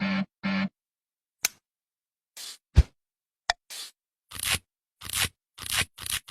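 A string of short, separate edited sounds, each cut off into silence: two brief buzzy tones at the start, a few sharp clicks, a low thud about three seconds in, then hissing bursts repeating about every half second.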